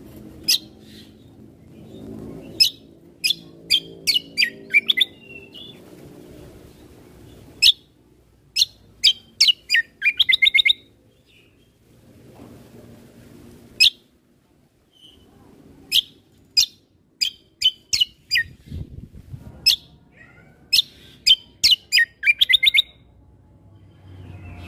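Cucak kombo (kecial kombok) songbird singing: loud, sharp chirps that sweep down in pitch, bunched into quick rattling runs with short pauses between them.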